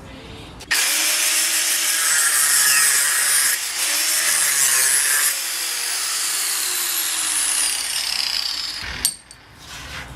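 A power tool cutting, starting suddenly and running steadily for about eight seconds, then stopping abruptly with a click.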